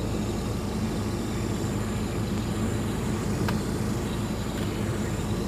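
Car engine running steadily, heard inside the cabin as an even low hum, with a faint click about three and a half seconds in.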